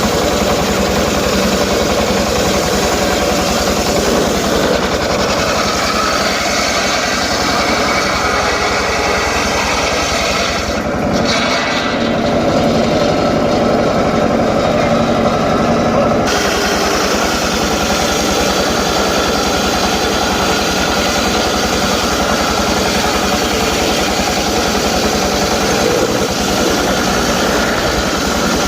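Homemade circular saw running steadily while ripping teak timber, a dense mechanical drone with a hiss on top. The upper hiss thins out for several seconds around the middle.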